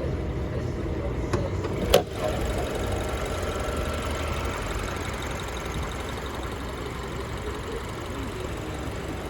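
BMW 528i's 2.0-litre turbocharged four-cylinder engine idling steadily, with a single sharp click about two seconds in.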